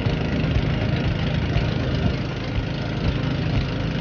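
Motorised outrigger boat (bangka) engine running steadily under way, with a constant rushing noise over it.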